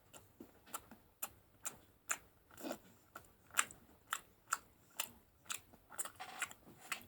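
Someone chewing a mouthful of chocolate: a run of faint, short clicks and crunches at about two a second.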